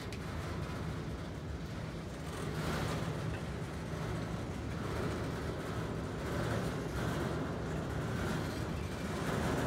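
Freight cars rolling past on the track: a steady rumble of steel wheels on rail that swells louder a few times.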